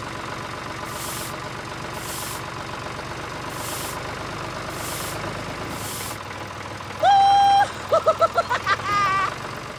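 Tractor engine running steadily, the engine sound for a toy tractor pulling a roller, with five faint hisses in the first six seconds. A single held horn-like note sounds about seven seconds in, followed near the end by a run of short squeaky chirps.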